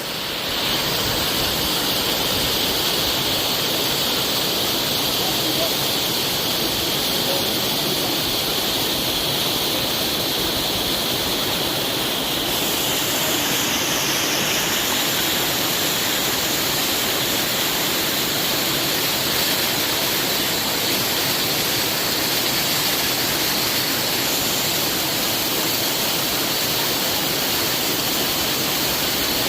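Piran waterfall rushing: a steady, dense roar of falling water.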